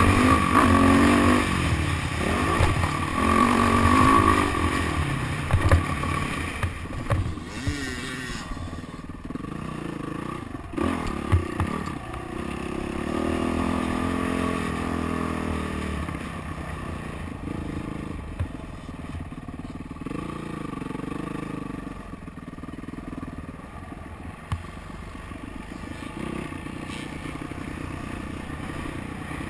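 Motocross bike engine revving up and down as it rides the track, louder for the first several seconds, with a few sharp knocks and clatter along the way.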